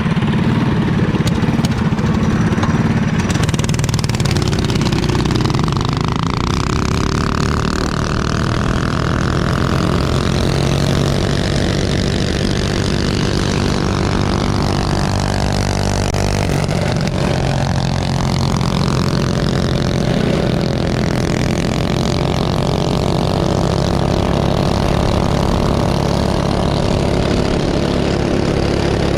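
Small minibike engines running continuously at racing speed around a circle track. Their pitch swells and sags as they circle, with a marked fall and climb in pitch about halfway through.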